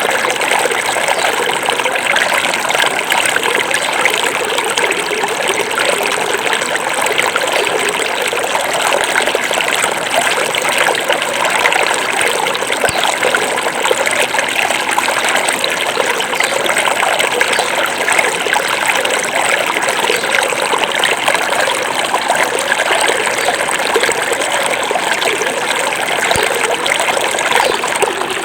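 Small forest river running over stones, a steady rushing and trickling of water.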